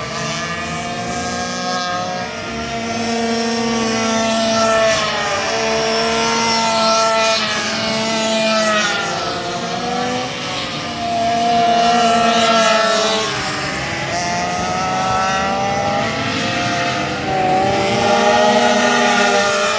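Several racing minibike engines at high revs, their pitches repeatedly climbing and dropping as the bikes accelerate and brake around the circuit, overlapping one another.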